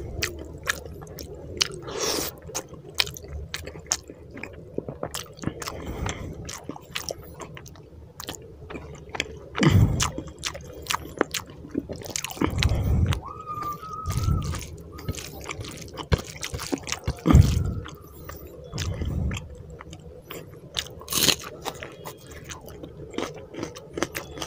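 Close-miked eating: a person chewing mouthfuls of rice and egg curry with wet smacks, squishes and many small mouth clicks. Several louder low thumps come around the middle.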